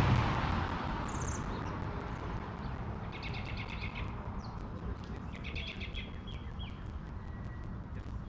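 Songbirds calling: a short high call, then two bouts of rapid trilled notes, over a low steady outdoor hum. A passing vehicle's sound fades away in the first second or so.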